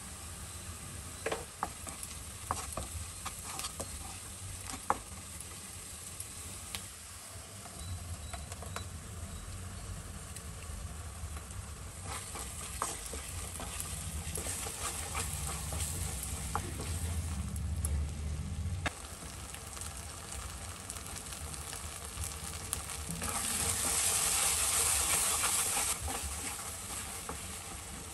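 Onion and spice masala frying and sizzling in a non-stick kadai while a spatula stirs and scrapes it. There are sharp taps of the spatula on the pan in the first few seconds, and the sizzle swells louder for a few seconds near the end.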